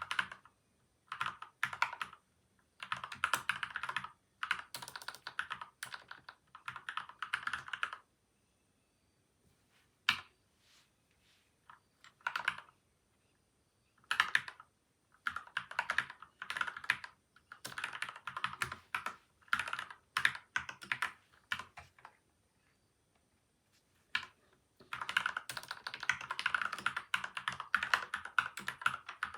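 Typing on a PCL87 mechanical keyboard fitted with linear Gateron Milky White and Outemu Yellow switches, lubed switches and stabilizers, and taped and foamed inside. It comes in quick runs of keystrokes, with pauses of a few seconds broken by a single keypress or two, around a third of the way in and again just before three-quarters.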